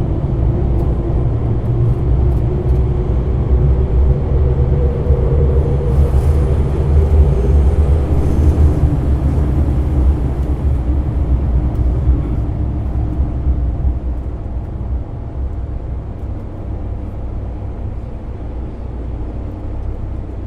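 Running sound inside a JR 205-series electric train motor car with MT61 externally fanned traction motors: a steady rumble of wheels on rail with motor hum. From about two-thirds of the way through, the sound grows quieter and the hum drops lower as the train slows before a station stop.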